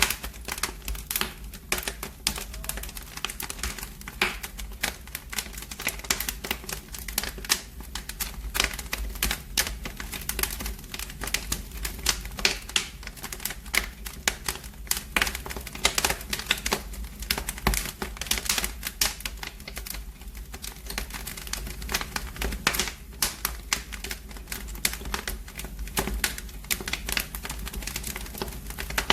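Wood fire in a fireplace crackling, with dense, irregular sharp pops and snaps over a low steady rumble.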